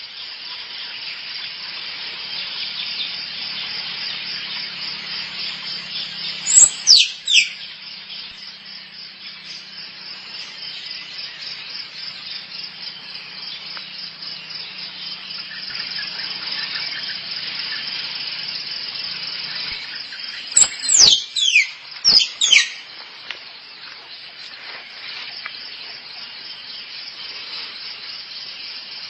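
Squirrel calling: sharp, high squeals that fall steeply in pitch, a pair about 7 s in and a quick group of three or four around 21 s in. A steady, fast-pulsing high chirring runs behind them throughout.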